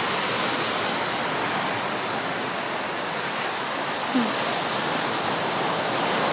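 Ocean surf crashing and churning against coastal bluffs: a steady, full rush of white water.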